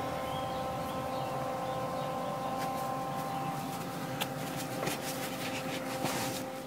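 Steady mechanical hum with a few fixed tones over a low noise floor, with a scattered handful of faint clicks and ticks in the second half.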